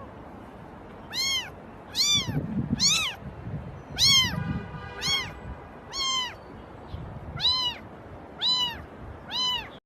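A cat meowing repeatedly: about nine short, high-pitched meows, each rising and falling in pitch, roughly one a second.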